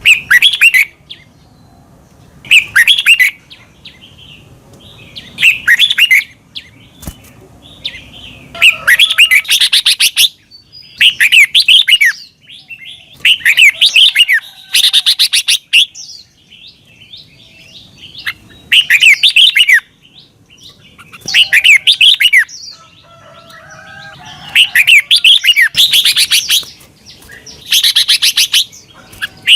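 Red-whiskered bulbul singing: short, quick phrases of swooping, whistled notes, repeated every couple of seconds.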